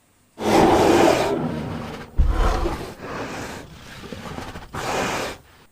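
Bear growling: about four rough growls, the first and loudest lasting about a second and a half, the others shorter.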